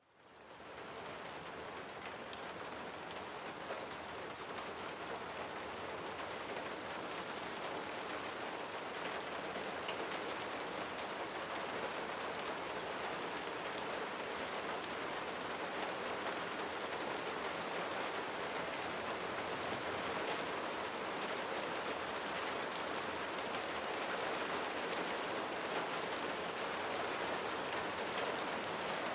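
Steady rain falling on leaves, with individual drops ticking sharply over the hiss. It fades in from silence over the first second.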